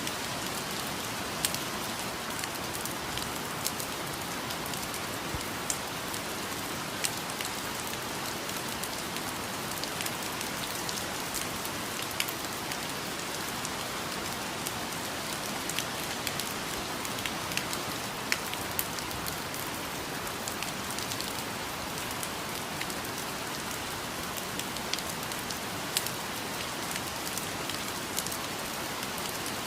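Steady rain falling on leaves and other surfaces, an even hiss dotted with the sharp taps of single drops.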